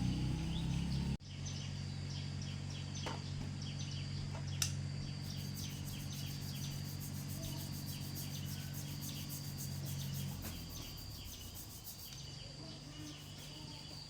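A loud low hum cuts off sharply about a second in. Then birds chirp repeatedly over an insect's steady high drone, with a quieter low hum underneath that drops away near the end.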